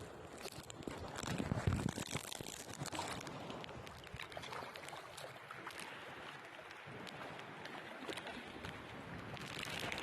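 Wind gusting on the microphone over moving water, with scattered small clicks. One stronger gust comes about a second in.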